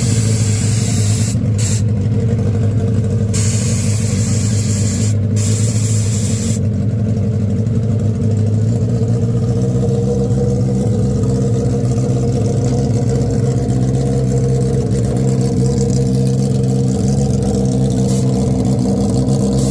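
A 1000 cc superbike engine idling steadily, its pitch holding level without revving. A hiss with short breaks runs alongside it and stops about six and a half seconds in.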